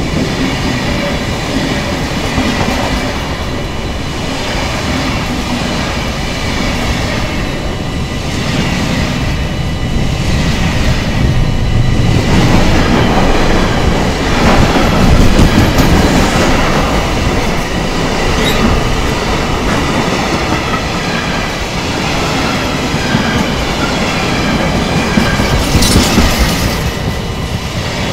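Two freight trains passing close by in opposite directions: a train of gas tank wagons and a container train hauled by a Siemens Vectron electric locomotive. Steady rumble and clatter of the wagons' wheels on the rails, loudest about halfway through as the container wagons pass nearest, with a few short sharp clanks near the end.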